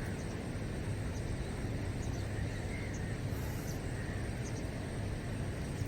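Steady outdoor background noise with a constant low hum, and a few faint, short, high bird chirps.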